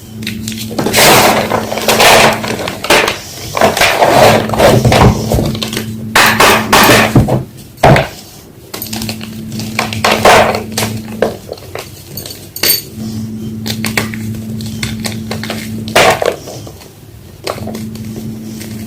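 A homemade gym chalk block being crushed and crumbled by hand, giving dense, irregular crunching and crackling. The crunching is heaviest in the first half and thins to separate crunches later.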